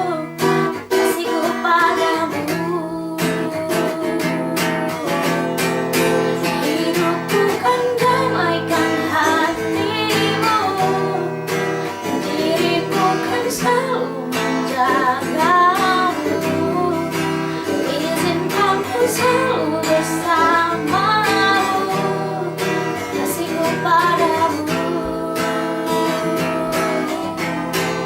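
A voice singing a melody over strummed acoustic guitar.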